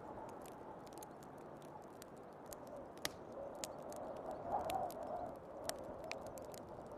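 Wood fire crackling with scattered sharp pops, a louder one about three seconds in, over a hiss of storm wind that swells about four and a half seconds in.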